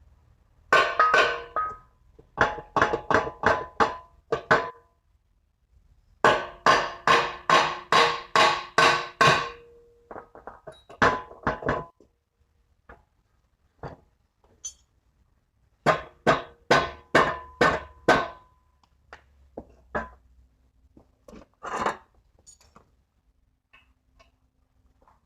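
Runs of rapid, ringing strikes on a metal part, about five blows a second in several bursts with pauses between.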